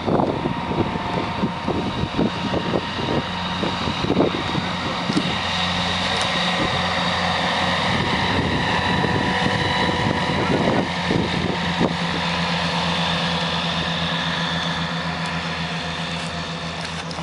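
Light aircraft's engine and propeller running steadily: a constant low hum with a higher whine and hiss above it, easing off slightly near the end. Irregular knocks and crackles sound during the first three seconds.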